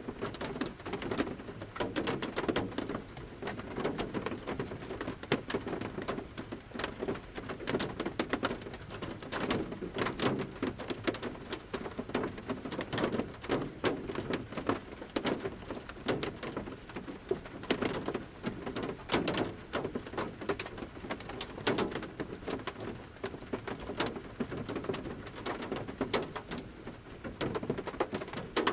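Large raindrops falling from the forest canopy onto the roof of a camper van, heard from inside the van: a dense patter of taps at irregular intervals.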